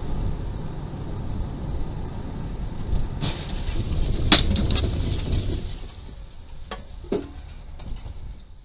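Car road noise picked up by a dashcam: a steady low rumble of tyres and engine. About four seconds in comes a sharp bang, followed by a few quick ticks, and near seven seconds two short knocks.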